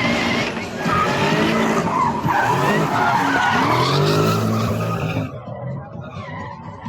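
A drifting car sliding with its tyres squealing and its engine revving up and down. It is loud for about five seconds, then fades as the car moves off.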